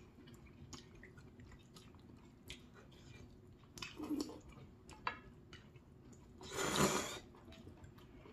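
Close-miked chewing of spicy seafood ramen noodles and rice cakes, with small wet clicks throughout and a louder, longer noisy burst about six and a half seconds in.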